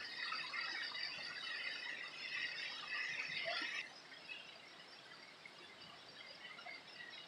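Many small birds chirping and twittering in high, quick calls, busy for about four seconds and then fainter.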